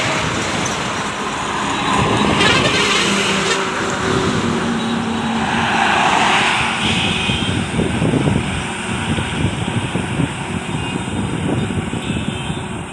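Trucks passing on a road one after another, engine and tyre noise swelling as each goes by, about two and a half seconds in and again about six seconds in.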